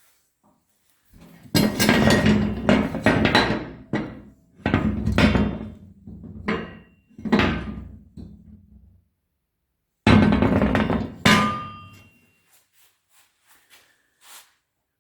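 Steel parts being struck and knocked together: a run of loud metallic bangs and clanks, each with a short ring, over about eight seconds. After a pause come two more loud clanks, then a few light taps.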